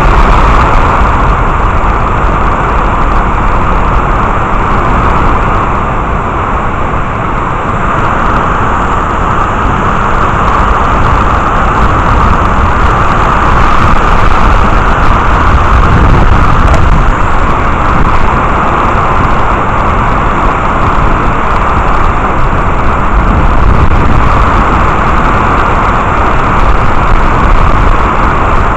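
Heavy rain falling steadily, a loud constant hiss with a deep low rumble underneath.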